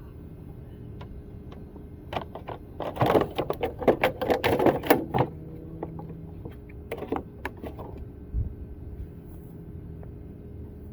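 Metal parts of a window air conditioner clanking and rattling as it is taken apart to remove the fan: a quick run of knocks a few seconds in, a few more later, and a single dull thump near the end.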